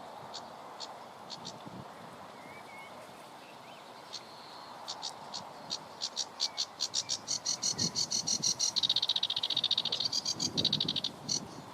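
An animal calling: a series of high, sharp clicks that starts sparse, speeds up into a fast rattle, and stops just before the end. Underneath there is a steady rush of wind noise with a few low thumps.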